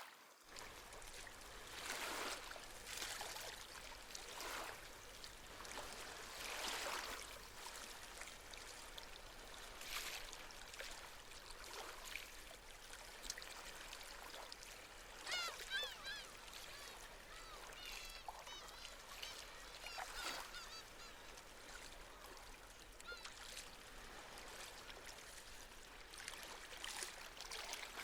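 Gentle sea waves washing in and out on a shore, swelling every few seconds. Seabirds call in a quick series about halfway through, and again briefly near the end.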